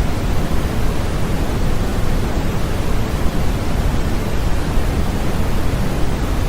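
Continuous white noise for infant sleep: a steady, unchanging hiss with most of its weight in the low end.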